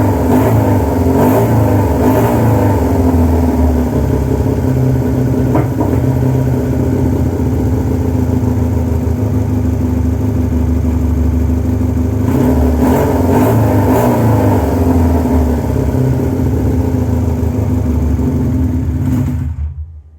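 Yamaha FZR600 motorcycle's inline-four engine running, revved up and down a few times in the first seconds and again past the middle. It cuts off suddenly near the end.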